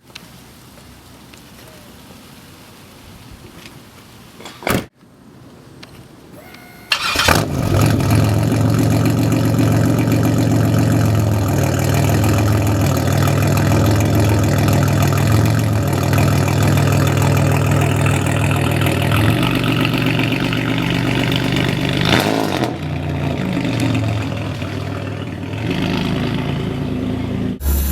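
Pontiac Grand Prix with straight-piped exhaust: after a sharp knock about five seconds in, the engine starts abruptly about seven seconds in and then idles loud and steady, the exhaust note dipping briefly near the end.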